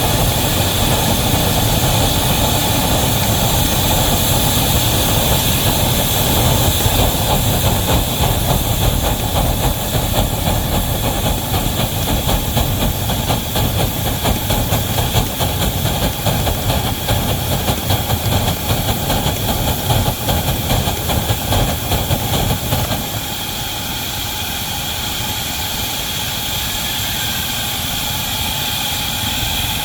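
Wabash locomotive No. 713 working a heavy train: a heavy rumble with a steady hiss over it. The rumble drops away about 23 seconds in, leaving the hiss.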